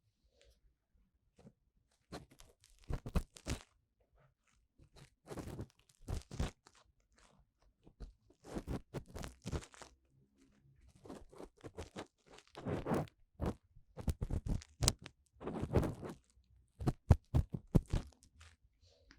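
Ear-cleaning tool scraping and rubbing inside the silicone ear of a 3Dio binaural microphone. The crackly strokes come in short clusters separated by brief pauses.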